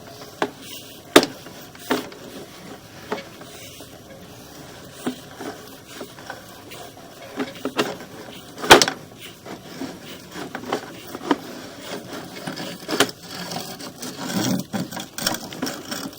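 Irregular knocks, clicks and rubbing, the sound of a hand-held camera being handled and carried while walking, with one loud knock a little past halfway.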